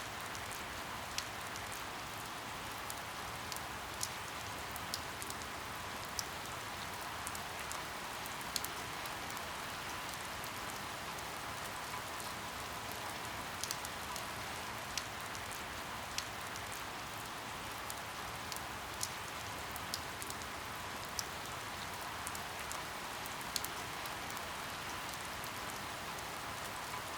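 Steady rain falling as an even hiss, with irregular sharp ticks of individual drops hitting a surface.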